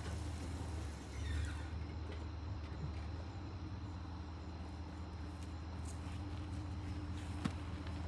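Vehicle engine idling steadily, a low hum, with a brief swell about a second in and a sharp click near the end.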